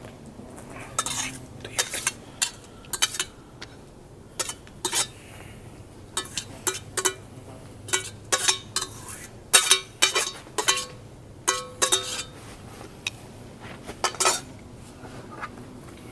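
Metal utensil clinking and scraping against cookware in a quick, irregular series of sharp clinks, a few of them ringing briefly.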